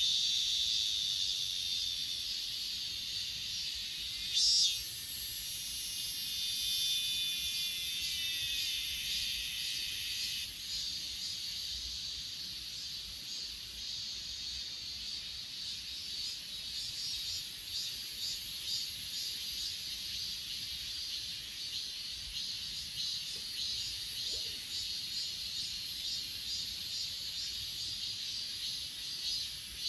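A steady chorus of grass insects chirring at high pitch. About four seconds in, a louder, shriller buzz joins with a falling tone under it, and it cuts off about six seconds later.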